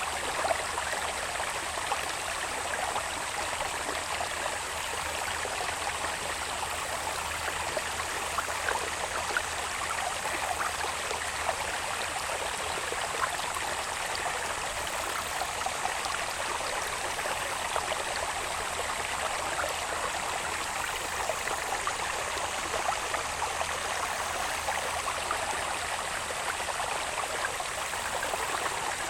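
Water babbling steadily along a small irrigation channel running down from the hills. A thin, steady, high-pitched insect tone runs above it.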